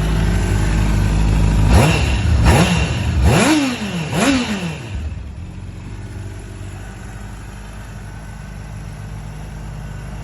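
2015 Honda CBR600RR's inline-four engine idling, then blipped four times in quick succession: each rev climbs sharply and falls straight back, starting about two seconds in. It then settles back to a steady idle.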